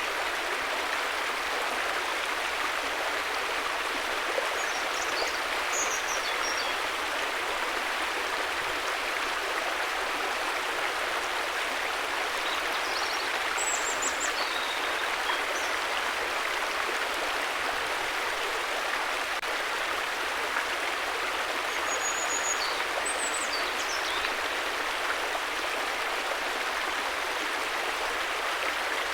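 A river flowing with a steady, even rush of water. Faint, short high chirps come in a few times over it.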